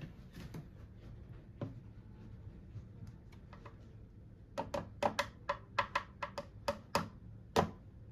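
A quick, irregular run of about a dozen sharp clicks or taps over a low steady hum, starting a little past the middle and stopping shortly before the end.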